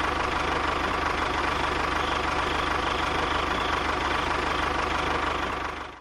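An engine running steadily at a fast, even idle, cutting off suddenly at the end.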